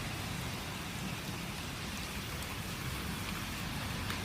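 Rain from a thunderstorm falling steadily, an even hiss with a few faint drop ticks.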